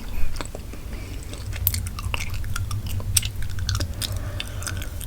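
Gum chewed close to the microphone: irregular wet mouth clicks and smacks, over a steady low hum.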